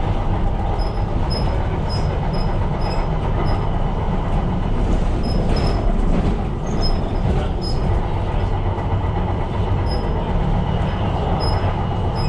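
Tyne & Wear Metro train running along the line, a steady rumble of wheels on track with short, high wheel squeaks now and then.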